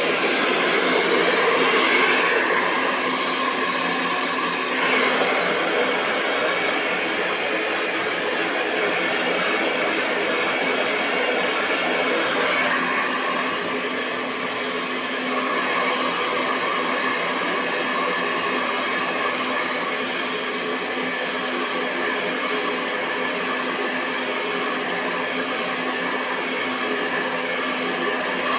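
Hair dryer running steadily: a continuous rush of blown air over a constant motor hum, its tone shifting slightly a few times.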